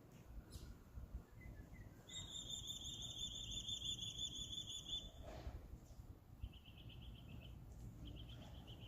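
A bird singing a high, fast buzzy trill for about three seconds, then two shorter, slightly lower trills near the end, over a faint low outdoor rumble.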